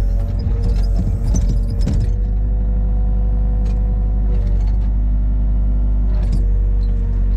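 A large engine running steadily at a constant low drone, with clanks and knocks during the first two seconds and again about six seconds in.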